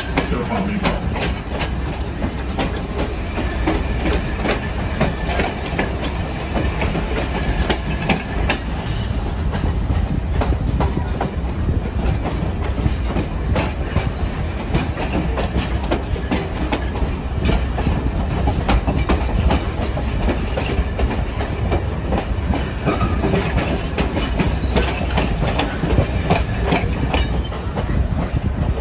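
Heard from aboard a rolling passenger train: steady rumble of the cars with frequent clicks and clatter as the wheels run over the rail joints.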